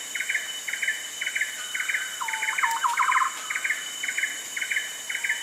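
Rainforest birds calling over a steady insect drone: one bird repeats a short call about twice a second, and a second bird joins with a quick run of lower calls near the middle.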